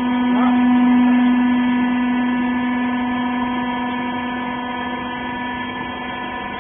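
Horizontal wiper baler's hydraulic power unit running with a steady machine hum, one strong low tone with higher overtones. It swells just after the start, is loudest about a second in, then slowly eases off and drops away near the end.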